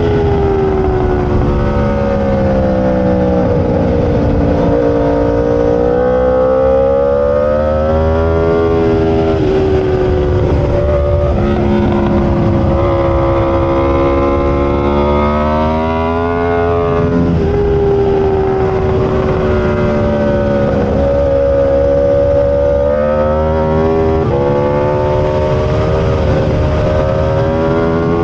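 Aprilia RSV4 superbike's V4 engine at racing speed. Its pitch climbs under hard acceleration and drops when the throttle closes for braking, several times over, with a steady rush of wind underneath.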